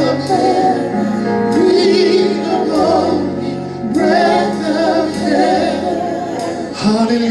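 Live gospel worship music: sustained keyboard chords under a singer's held, wavering vocal lines, sung in phrases without clear words.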